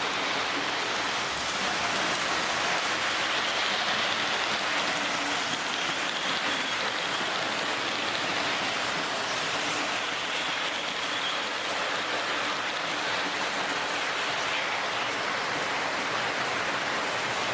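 Lionel O gauge D&H U36c diesel locomotives running on three-rail track: a steady, even whirring rumble of the motor and metal wheels on the rails.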